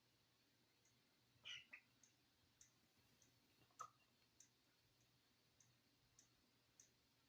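Near silence with faint, evenly spaced ticks about every 0.6 seconds, and two soft short sounds about one and a half and nearly four seconds in.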